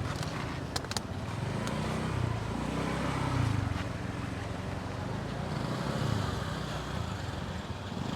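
Motorbike engine running during a ride, its low hum swelling and easing with the throttle, over road and wind noise. A couple of sharp clicks about a second in.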